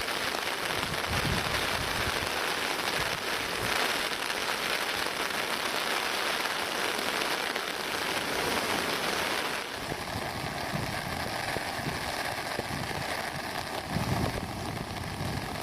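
Heavy typhoon rain falling, a dense steady hiss; about ten seconds in the sound changes abruptly to a duller, slightly quieter rushing.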